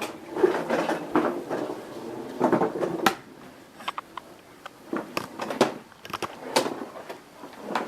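Irregular knocks, clunks and shuffling as a vacuum cleaner is handled and moved from room to room with its motor switched off; the sharpest knocks come about three seconds in and around five to seven seconds in.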